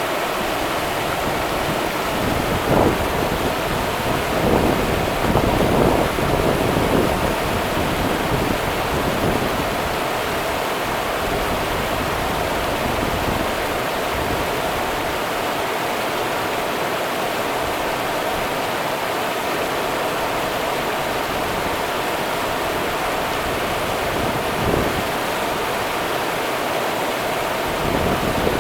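Rio Grande river water rushing in a steady, dense hiss, with a few brief louder swells near the start and again near the end.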